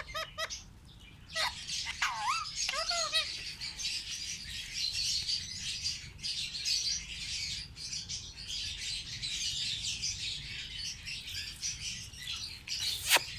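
Parrots chirping and chattering without a break, with a few arched whistled calls in the first three seconds and one sharp click near the end.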